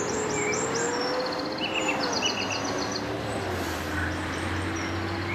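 Small birds chirping in quick repeated trills over steady outdoor noise, with a faint low hum that slowly rises and falls in pitch.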